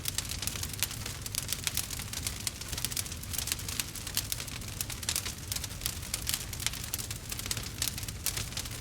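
Wood fire burning, with dense irregular crackles and pops over a low, steady rumble of the flames.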